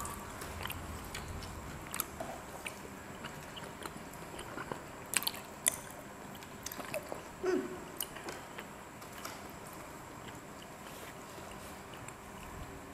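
People chewing and biting skewered fried street snacks, with scattered small clicks and taps. There is a brief low vocal sound a little past halfway.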